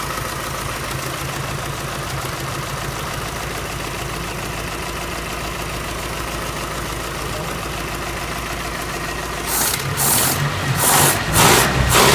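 The freshly overhauled four-cylinder flathead engine of a GAZ-67 idling steadily, then revved in a run of short, loud throttle blips about two a second near the end.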